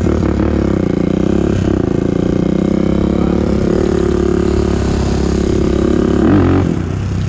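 2001 Honda TRX400EX quad's single-cylinder four-stroke engine running under throttle while riding, its pitch dipping and rising gently. Near the end it revs up briefly and then drops back.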